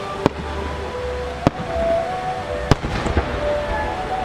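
Large aerial firework shells (12-inch, 10-go) going off as three sharp bangs a little over a second apart, with a weaker one after them.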